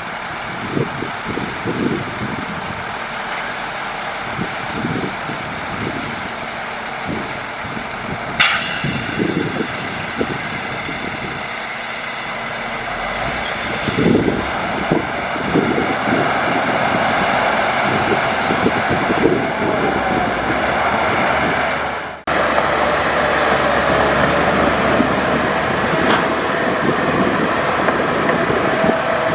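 A dump truck and a bulldozer working with their diesel engines running, with repeated low clanks and knocks throughout. There is a short sharp air hiss about eight seconds in. The sound breaks off abruptly about two-thirds of the way through and carries straight on.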